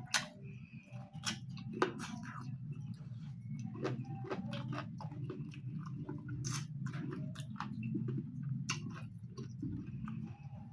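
A person chewing food close to the microphone, with many irregular wet smacks and clicks of the mouth.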